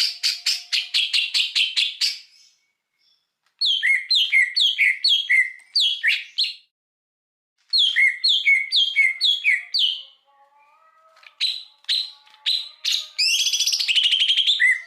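Songbird song from a cage-bird tutoring (masteran) recording: a fast run of rattling notes, then two phrases of quick downward-slurred whistles with short pauses between, ending in a few sharp chips and a buzzy trill.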